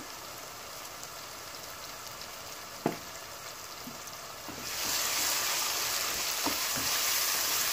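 Onions, tomato and ground spices frying in oil in a pot: a quiet sizzle with a single sharp knock about three seconds in, and the sizzle grows louder about five seconds in and stays louder.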